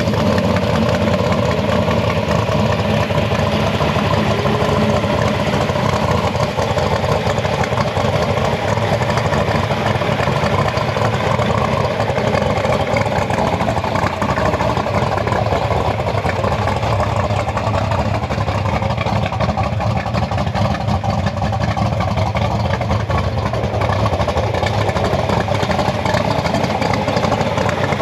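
A car engine running steadily with a deep rumble.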